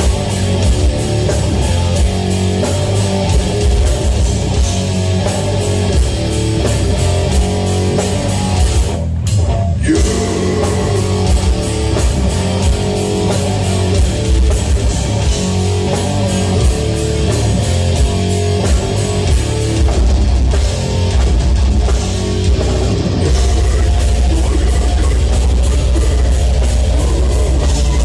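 A heavy metal band playing live and loud: distorted electric guitars, bass and a drum kit. The music breaks off for a moment about nine seconds in, and the last few seconds have a heavier, steadier low end.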